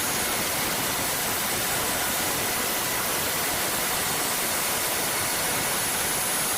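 Steady rushing noise of an HH-60 Pave Hawk rescue helicopter hovering, its turbines and rotor heard as an even wash with no distinct blade beat.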